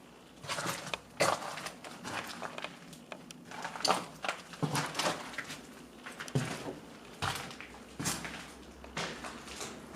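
Footsteps of a person walking on a hard floor, uneven steps about one a second with scuffs and knocks.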